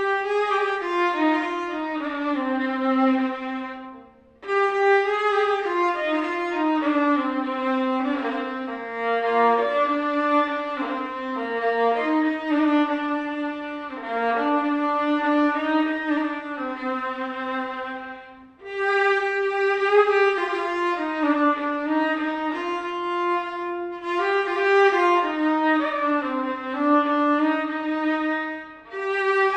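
Santali behla banam, a bowed folk fiddle, playing a solo melody in flowing phrases, with short breaks about four seconds in and again just before the middle.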